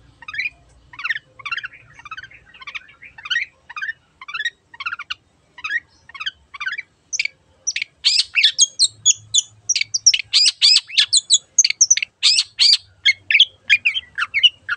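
Long-tailed shrike (cendet) singing a run of short, sweeping chirps. The notes are spaced apart at first, then come faster and louder from about halfway through.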